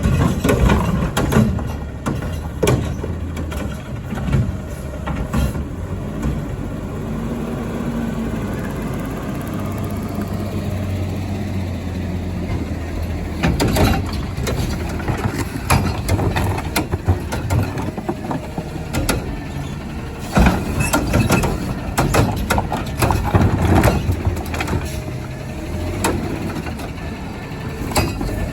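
Garbage truck's engine running steadily, with repeated clanks and bangs, several about halfway through and a cluster in the later part.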